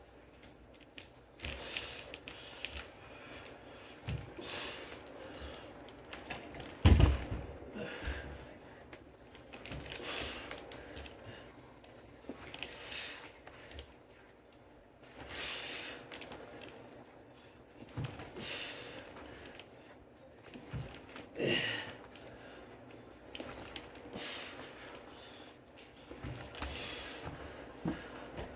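A person breathing hard with effort, a forceful breath every two to three seconds, with a loud thump about seven seconds in.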